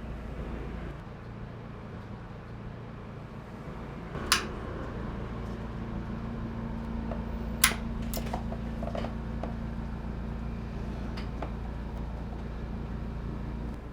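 Steady low mechanical hum, like a fan or appliance running, with two sharp clicks several seconds apart and a few fainter ticks and knocks, as of small objects being handled.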